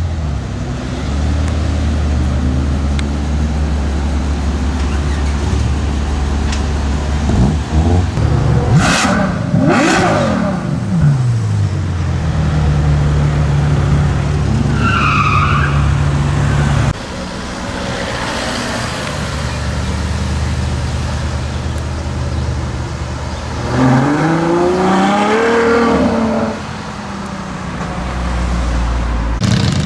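Ferrari FF's V12 engine running at low speed, then revved sharply twice in quick succession, settling back to a steady idle; later it pulls away with the pitch rising through a short acceleration.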